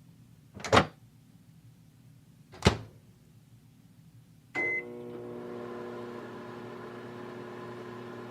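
Microwave oven: two sharp knocks, such as its door, then a short beep about four and a half seconds in, and the oven starts running with a steady hum as it heats.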